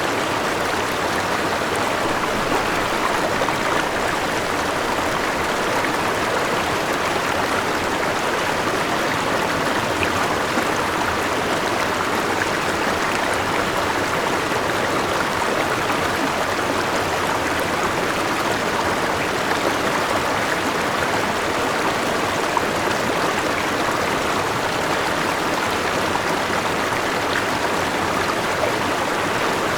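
River water rushing and splashing over rocks, a steady, continuous noise with small fluctuations.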